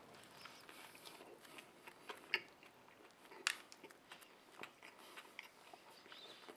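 A man biting into a soft sesame-bun cheeseburger and chewing it: faint, irregular wet smacks and small clicks, the sharpest about two and three and a half seconds in.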